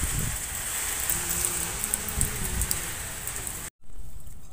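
Heavy rain falling steadily on a wet street, a continuous hiss with close spattering drops. Near the end it cuts off abruptly and a much quieter water sound follows.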